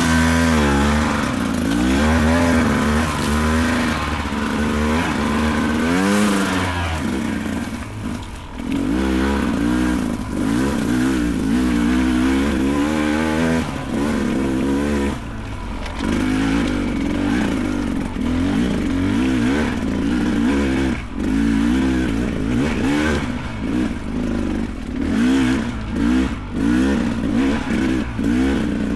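Beta 300 Race's 300cc two-stroke dirt bike engine revving up and down over and over, never settling, as it is ridden up a steep rocky trail. Sharp knocks and clatter come in, more often in the second half.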